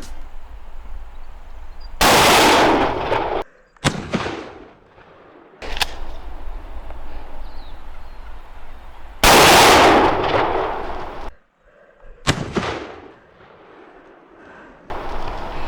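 Two shotgun blasts about seven seconds apart, each dying away over a second or two. A few fainter sharp knocks fall between them.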